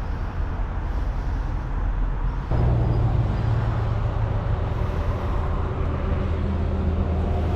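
A heavy truck's diesel engine idling with a steady low drone, which grows louder about two and a half seconds in.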